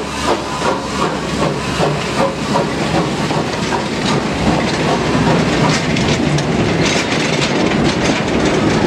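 Passenger coaches behind a 1942 H.K. Porter 0-4-0 steam locomotive rolling past, a steady rumble with scattered clicks of wheels over the rail joints. The locomotive's exhaust chuffs, about three a second, fade out in the first second.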